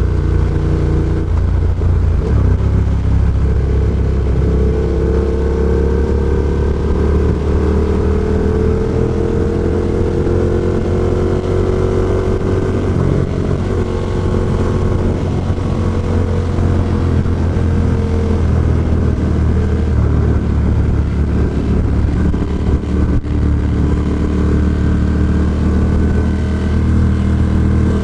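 Ducati Diavel Carbon's L-twin engine running through an Austin Racing GP2 exhaust under way, heard from a microphone inside the rider's helmet. The engine note climbs slowly over the first dozen seconds, then drops back and holds steady.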